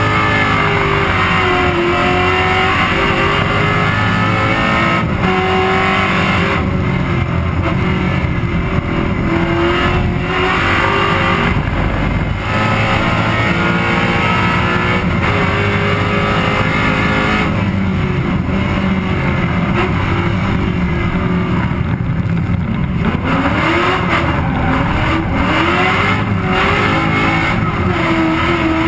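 Drift-prepped Ford Mustang GT's V8 engine running hard at full throttle through a lap, its pitch climbing and dropping again and again with the revs.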